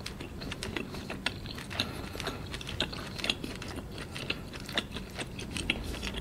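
Close-miked chewing of a thick piece of grilled squid with the mouth closed: a run of irregular wet clicks and smacks, about two a second.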